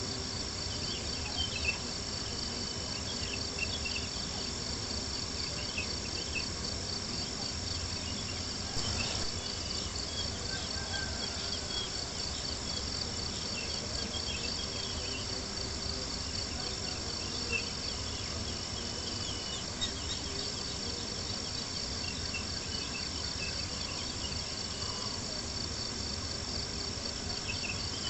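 Crickets chirping in a steady, fast pulsing trill over a low even hiss, with small scattered crackles from a campfire.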